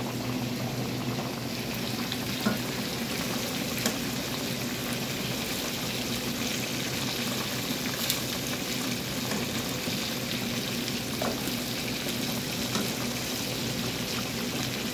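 Chicken breasts sizzling as they fry in a pan of oily sauce, with a few sharp clicks of metal tongs against the pan over a steady low hum.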